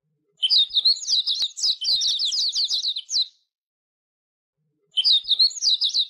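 Small bird chirping and twittering rapidly in two bursts: a long run of about three seconds, then a shorter run near the end.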